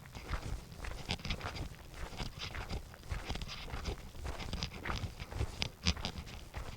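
Footsteps of a person walking along a path: a quick, irregular run of steps over a low rumble.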